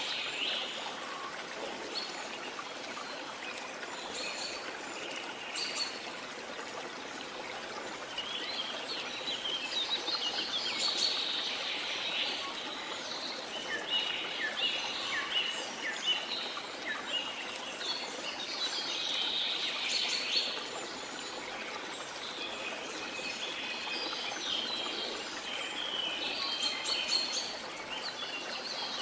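Steady rush of a waterfall with tropical forest birds chirping and trilling over it in repeated bouts.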